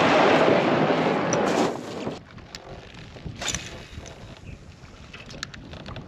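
Wind buffeting the microphone, loud for about the first two seconds and then dropping away suddenly, leaving quieter water-and-air background with scattered small knocks and ticks.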